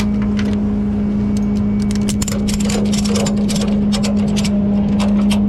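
Tow truck's engine running steadily with a constant low hum, and a run of quick clicks from about a second in as a ratchet strap is tightened to tie the pickup down.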